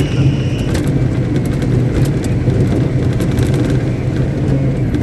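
Caterpillar 777D haul truck's diesel engine running steadily at a constant speed while the truck is ground tested in place.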